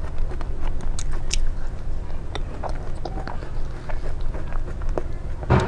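Close-miked eating: biting and chewing, with scattered short clicks over a steady low rumble and a louder burst near the end.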